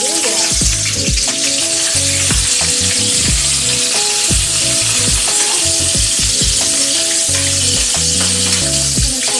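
Garlic, onion, ginger and chopped tomato hitting hot cooking oil in a wok: a loud sizzle that starts at once and holds as a steady hiss while a metal spatula stirs the sauté (ginisa).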